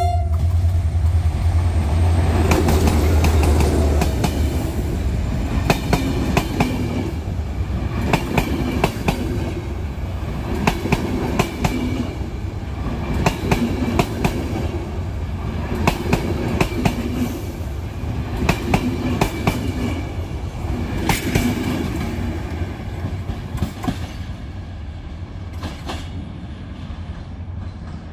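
A passenger train hauled by a GM diesel locomotive passing close by. The locomotive's engine rumble is heard for the first few seconds. Then the carriage wheels clack over rail joints in clusters of knocks about every two and a half seconds, fading as the train moves away.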